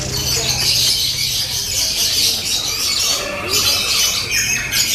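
Lovebirds chattering in rapid, high-pitched squawks and trills without a break.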